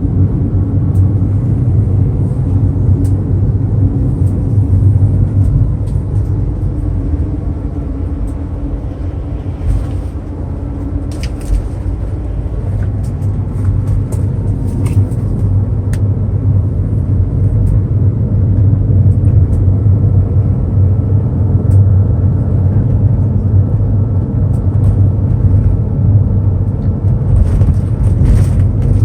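Steady low rumble of a car on the move: engine and road noise, growing a little louder in the second half.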